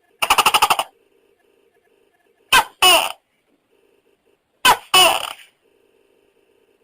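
Tokay gecko calling: a short rattling croak, then two-syllable "to-kay" calls, twice, each syllable falling in pitch.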